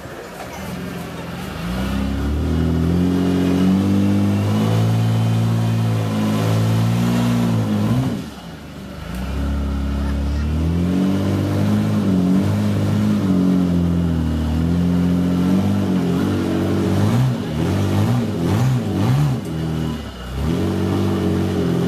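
Competition trial truck's engine revving hard under load, its pitch climbing and falling. It eases off briefly about eight seconds in, then gives a series of quick up-and-down blips near the end.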